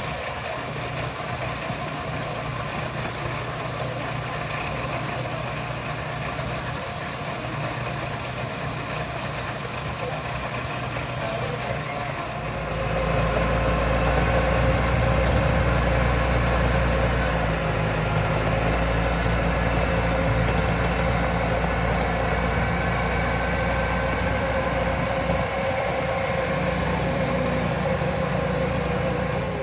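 A locomotive of the 15-inch gauge Romney, Hythe and Dymchurch Railway running steadily nearby during shunting. It grows clearly louder and deeper a little under halfway through.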